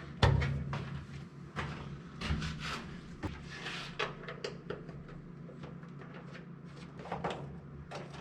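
A string of knocks and clicks from objects being handled, with a loud knock just after the start. The knocks come often through the first half, thin out in the middle, and come back briefly a little after seven seconds.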